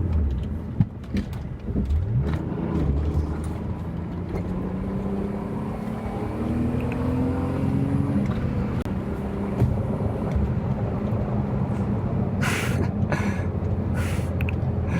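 BMW E34 car engine accelerating hard: its pitch climbs as it revs, drops back at a gear change about eight seconds in, then runs on steadily under throttle.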